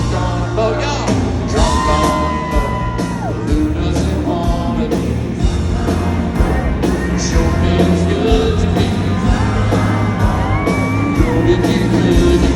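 Live country band playing loud in a large hall, with held, bending lead notes over the band and singing and crowd whoops.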